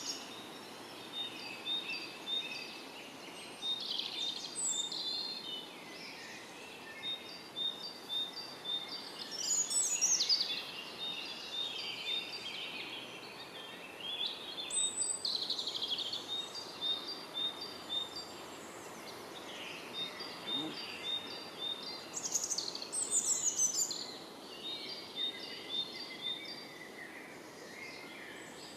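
Songbirds singing: one keeps up rows of short, high, repeated notes, while louder, fuller song phrases break in about every five to six seconds.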